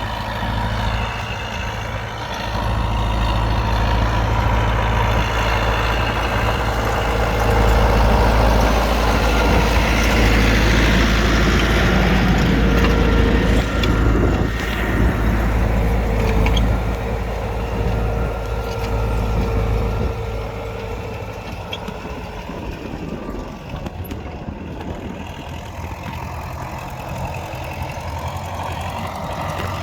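U650 tractor's four-cylinder diesel engine running while pulling a three-furrow plough through the soil. It gets louder about two seconds in and drops to a lower level about two-thirds of the way through.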